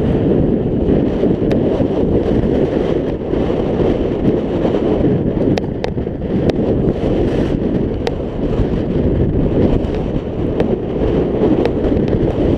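Heavy wind noise on a GoPro's microphone while riding a scooter: a steady low rumble, with a few short sharp ticks around the middle.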